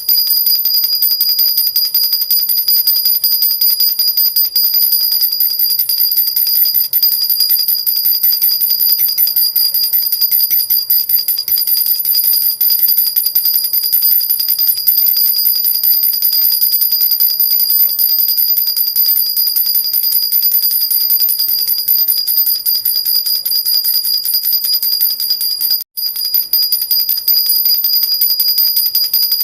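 Silver jhunjhuna baby rattle shaken steadily and quickly, its small bells ringing in a continuous high-pitched jingle, with a split-second break near the end.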